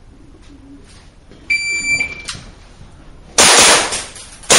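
Electronic shot timer gives one steady start beep, under a second long, about one and a half seconds in. About a second after it a pistol shot goes off, and a second shot follows near the end, each with a long echo off the range walls.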